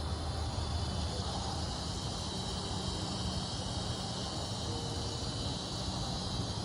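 A steady outdoor insect chorus, a high continuous trill, over a constant low rumble.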